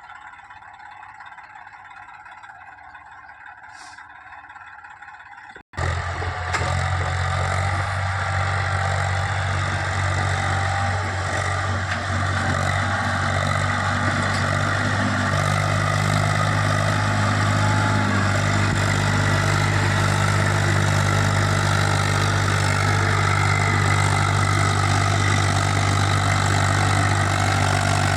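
Faint background noise for the first few seconds, then an Eicher 380 tractor's diesel engine running steadily, beginning abruptly about six seconds in and getting a little louder about halfway through.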